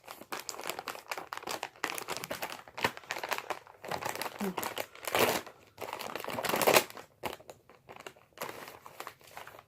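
Packaging of a pack of Hoover WindTunnel vacuum bags crinkling and crackling as it is handled and torn open, with two louder rips about five and six and a half seconds in.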